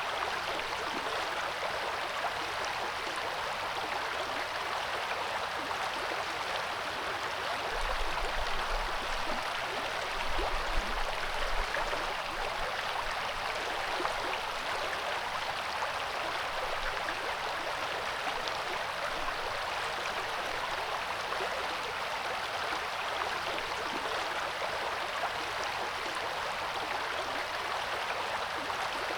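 The Coeur d'Alene River flowing, a steady rushing hiss of moving water, with two brief low rumbles about a third of the way in.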